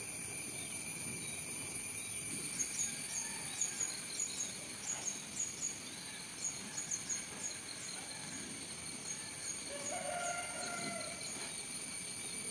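Outdoor ambience: a bird repeating short, high, falling chirps, about two a second, over a steady high-pitched hum, with a brief lower call near the end.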